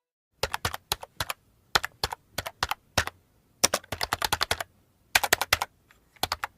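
Keyboard typing sound effect: irregular runs of sharp key clicks in several quick bursts, with short pauses between them.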